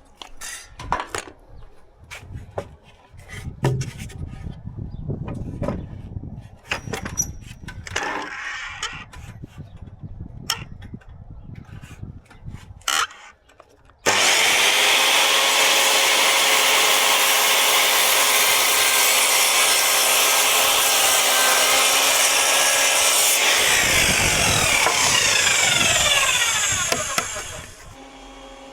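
Wooden panels handled with scattered knocks, clicks and scrapes; then, about halfway in, an electric power saw starts suddenly and runs steadily on wood for about nine seconds before winding down with falling pitch.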